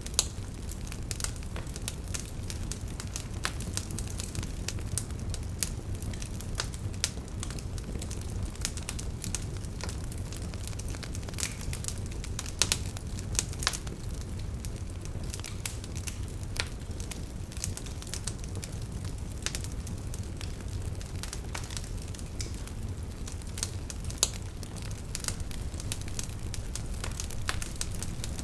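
Wood fire crackling: irregular sharp pops and snaps over a low steady rumble, with a few louder pops about halfway through and again near the end.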